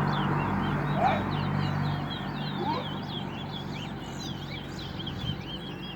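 A caged finch singing a fast, unbroken string of short, high chirping notes over a low steady hum.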